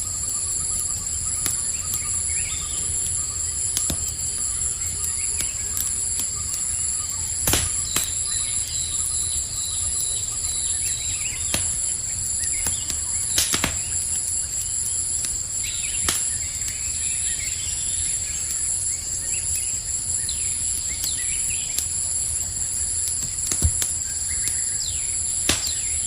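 Campfire and night-forest ambience: crickets trilling steadily and high, with scattered short bird chirps over it. A crackling fire snaps sharply a few times, loudest about a third of the way in and again around midway.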